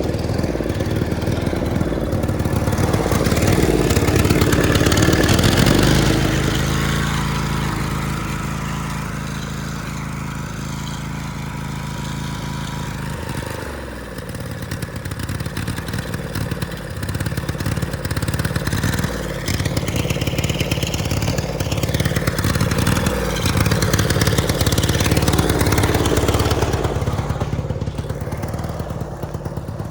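Tractor engine running hard at high throttle, its speed rising and falling. It builds to a loud peak a few seconds in, holds fairly steady, dips about halfway through, climbs again and eases off near the end.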